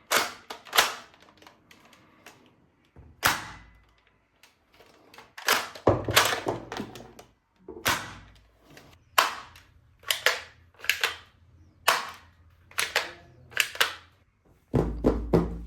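Plastic toy guns giving a series of sharp, cap-gun-like snaps and clacks at irregular intervals, about fifteen in all. Music starts about a second before the end.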